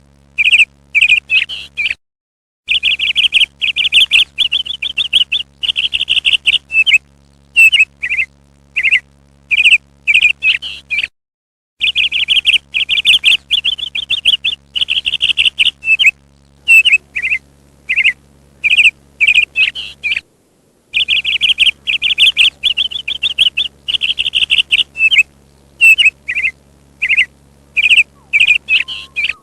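Parrot chirping in rapid runs of short, high chirps and trills, with short pauses between runs, over a faint low hum. The sound cuts out completely three times for under a second each.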